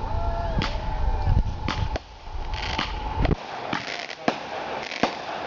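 Fireworks going off: a string of sharp bangs, roughly one or two a second, with a steady tone and a low rumble that stop about three seconds in.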